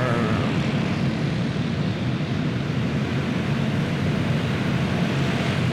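A pack of dirt-track racing karts with single-cylinder clone four-stroke engines running flat out together after a restart, a steady massed engine drone.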